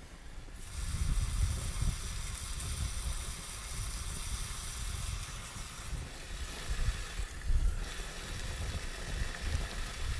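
Food sizzling in a frying pan over a wood fire, a steady hiss that drops away briefly about seven seconds in, with low rumbling wind noise on the microphone.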